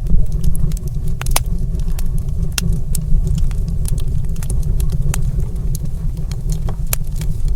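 Wood fire in a stone fireplace crackling, with irregular sharp pops and snaps over a steady low rumble.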